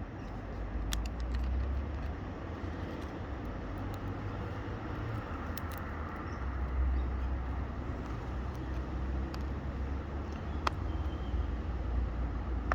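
Steady low rumble of road traffic going by, with a few faint sharp clicks scattered through it.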